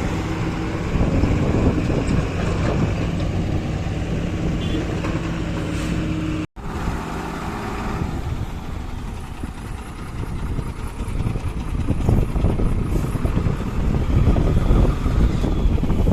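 Diesel engines of heavy earthmoving machinery running steadily. The sound drops out completely for an instant about six and a half seconds in, then resumes rougher and grows louder toward the end.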